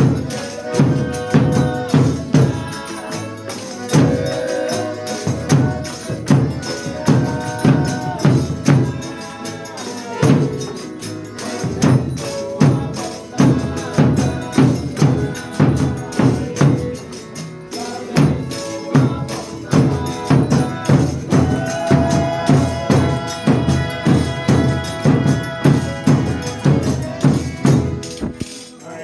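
Folia de Reis folk music played live: a steady drum and tambourine beat about twice a second under sustained instrument notes, with little singing.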